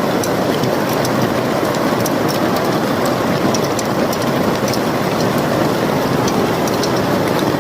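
Hailstorm: hailstones pelting down in a dense, steady clatter, with many sharp ticks of individual stones striking.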